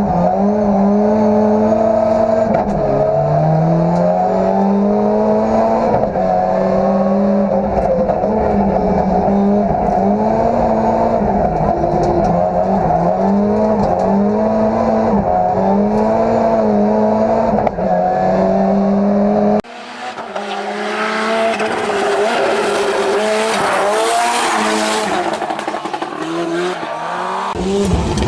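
Ford Sierra Cosworth Group A rally car's turbocharged four-cylinder engine at full race, the revs climbing and dropping every second or two. About two-thirds of the way in, the sound cuts to a thinner engine note under a loud hiss, with some tyre squeal.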